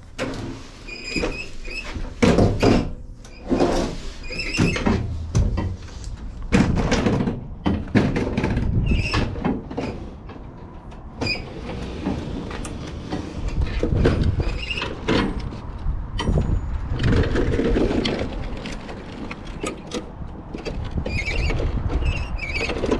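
Stiga Euro 50SH walk-behind lawn mower being handled and moved: irregular knocks and clunks with repeated short, high squeaks.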